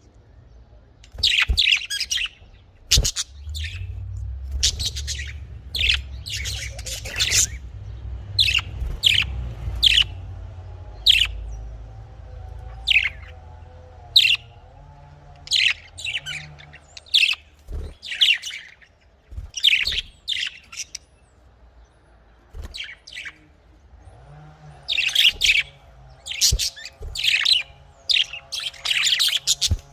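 Budgerigars chirping, a long run of short, sharp chirps in quick succession that thins out for a few seconds in the middle, over a low steady hum.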